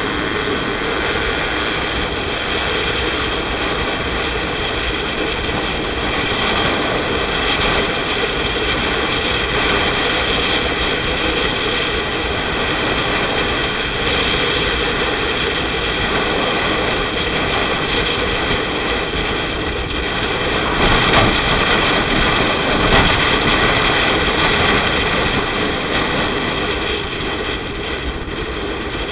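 Motorcycle riding along, a steady engine drone mixed with wind and road noise on the rider's camera microphone. Two brief louder knocks, about two seconds apart, come in the last third.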